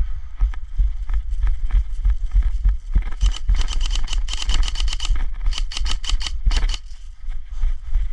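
Footsteps of someone running over the ground, about two to three a second, over a low rumble of wind or movement on a body-worn microphone. About three seconds in, a few seconds of dense, rapid crackling with a hissy edge comes in and stops just before seven seconds.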